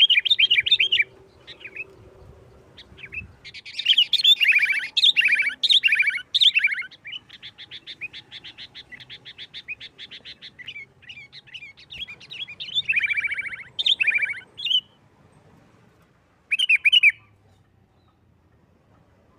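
Sooty-headed bulbul singing in loud bursts of chattering phrases, with a fast, evenly repeated trill lasting several seconds in the middle and a short final phrase near the end.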